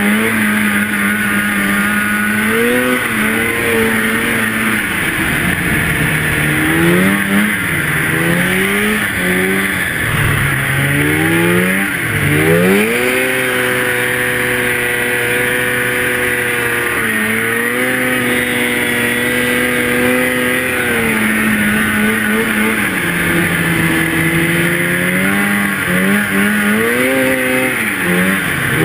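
Two-stroke snowmobile engine under way, its pitch holding steady at times and swinging up and down repeatedly as the throttle is worked. It runs steady and high through the middle, drops lower, then swings again near the end.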